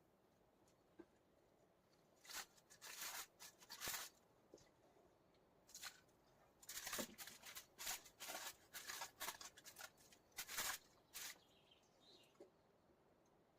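Quiet, irregular rustling, crinkling and scraping from hands handling food and materials, coming in two clusters of short bursts, about two seconds in and again from about six to eleven seconds in.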